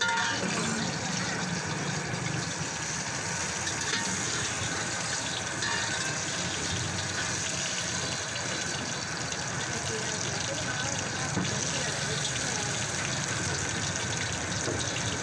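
Beaten egg sizzling in hot oil in a wok, a steady hiss that begins as the egg goes into the pan and keeps on as it is stirred with a ladle.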